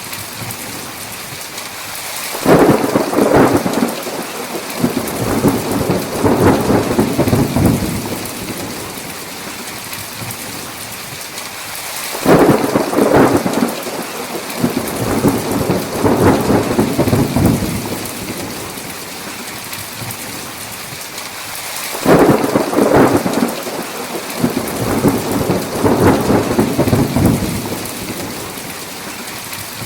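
Steady heavy rain with three rolls of thunder, each starting suddenly and rumbling for several seconds, about ten seconds apart.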